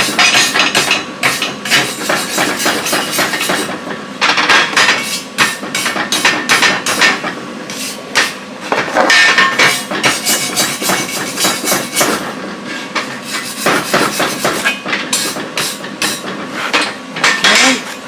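Electric arc welding on steel: a dense, sputtering crackle in about four runs of a few seconds each, with short breaks between them.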